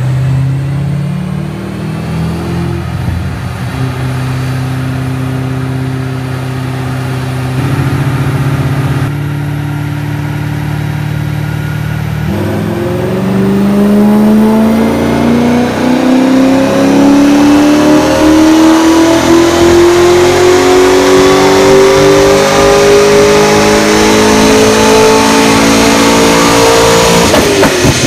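Chevrolet Corvette C6 Z06's LS7 V8, fitted with catless long-tube headers and LG mufflers, running on a chassis dyno. For about the first twelve seconds the engine holds steady speeds, with a few step changes in pitch. It then makes one long full-throttle pull, rising steadily in pitch for about fifteen seconds, and drops off suddenly near the end as the throttle closes.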